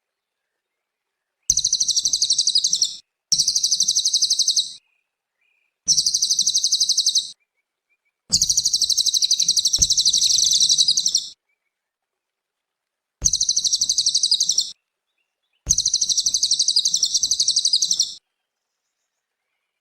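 A cililin singing: six bursts of fast, high trilling song, each one to three seconds long, with silent gaps between them.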